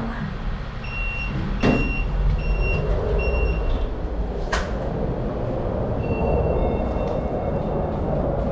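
Four short electronic beeps of one pitch, evenly spaced about two-thirds of a second apart, over a low steady rumble. A knock comes among the beeps and a sharp click follows. Near the end there are more beeps at two or three pitches.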